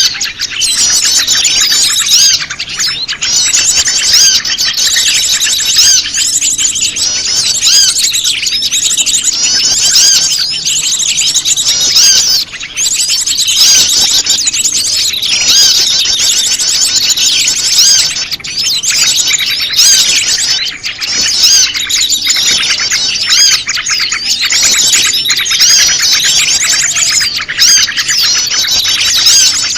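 Bird-lure recording of prenjak lumut calls mixed with a noisy chorus of small birds: dense, continuous high chirping and trilling from many birds at once.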